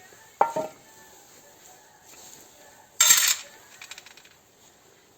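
Metal clinks of workshop tools or parts being handled: one clink about half a second in, a louder clatter about three seconds in, then a brief light rattle.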